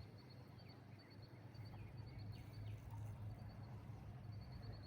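Faint outdoor ambience with birds chirping: a quick, even series of high chirps and a few short falling calls over a steady low rumble.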